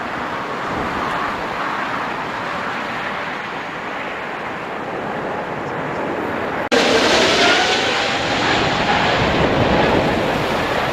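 Strong gusty wind blasting the microphone over the rumble of a jet airliner landing in a storm crosswind. About two-thirds of the way in it cuts to a louder clip, where a faint engine whine glides in pitch under the wind.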